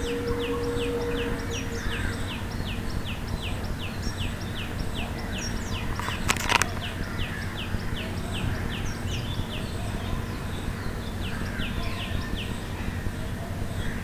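A small bird calling over and over: a rapid series of short, high, downward-slurred notes, about three a second, with a brief pause late on. A single sharp knock about halfway through.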